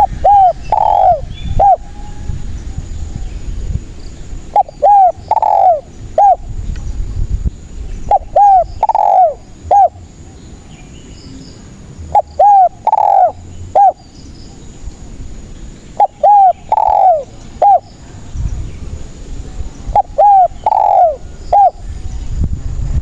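Spotted dove cooing: six phrases, repeating about every four seconds, each a quick run of four coos with one longer, louder note in the middle.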